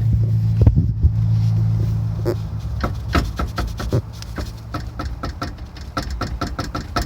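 Car engine idling with a steady hum that fades after the first few seconds, over a series of sharp metallic knocks that settle into a regular tapping of about three to four a second near the end. This is the kind of knock the owner traced to the engine heater striking the engine skid plate.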